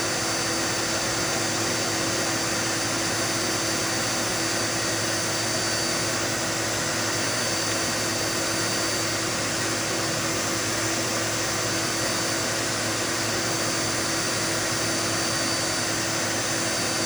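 Dirt Devil Multi-Surface vacuum cleaner running steadily, its motor and airflow a constant noise with a steady high whine.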